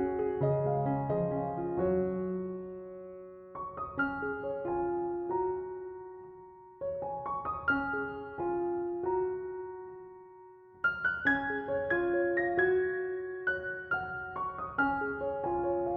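Slow, gentle piano music: phrases of struck notes that ring and fade away, with a new phrase beginning every three to four seconds.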